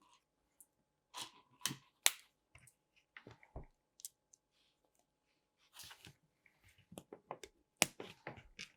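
Plastic LEGO bricks being handled and pressed together: scattered sharp clicks and snaps, the loudest about two seconds in and near the end.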